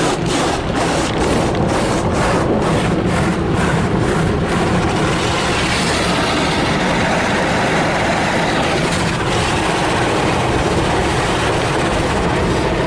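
Car wash tunnel equipment heard from inside the car: cloth brushes slapping and rubbing over the body about three times a second, giving way after about four seconds to a steady rushing roar of spray or blowers.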